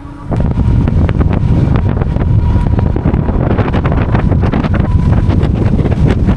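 Strong wind buffeting the microphone of a moving e-bike rider: a loud, low, rumbling rush with constant crackling gusts, which jumps up about a third of a second in. A faint steady whine sits underneath.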